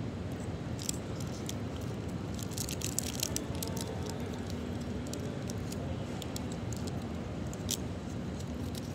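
Crisp crackles and clicks of a chocolate Flake being bitten and chewed: a cluster between about one and three and a half seconds in, a few more after, and one sharp click near the end. Under them runs a steady low hum of room noise.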